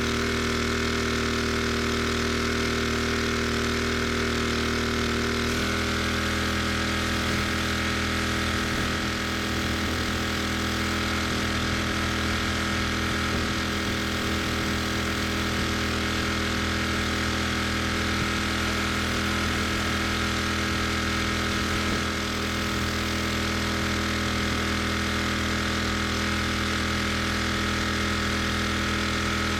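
Pressure washer's petrol engine running steadily. About five and a half seconds in its pitch drops slightly and a steady hiss joins it, as the engine takes the load of the pump and water sprays.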